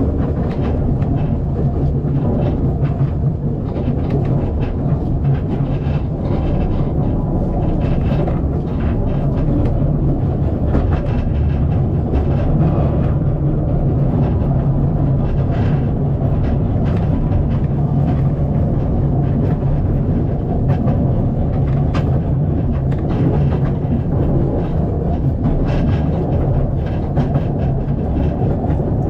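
Narrow-gauge steam railway carriage rolling along the track: a steady low rumble with frequent irregular clicks and knocks of the wheels on the rails.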